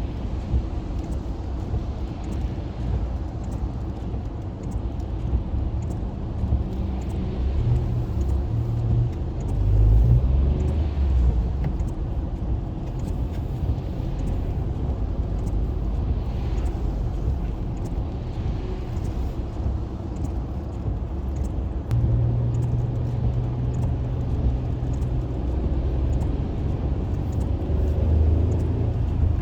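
Low engine and road rumble heard from inside a moving car, with a brief swell about a third of the way in and a steady low hum joining about three-quarters through.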